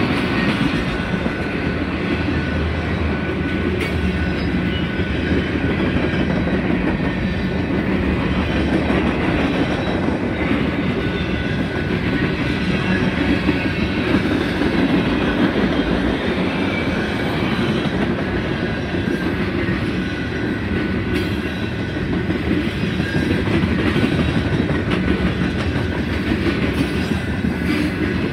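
Freight train cars rolling past close by, steel wheels running steadily over the rails.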